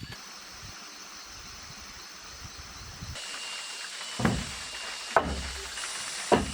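Three heavy knocks about a second apart over a steady hiss, which grows and gains a thin high steady tone about three seconds in.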